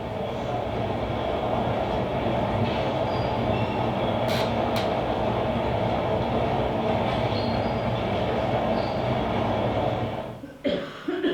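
Train running on its rails: a steady, loud rumble with two sharp clicks about four seconds in. It cuts off abruptly near the end.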